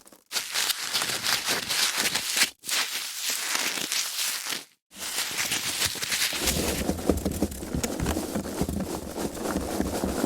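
Foam packaging being handled, a dense rustling, crackling rub in separate takes with short breaks about a quarter second, two and a half and five seconds in. From about six and a half seconds on the handling turns fuller and lower.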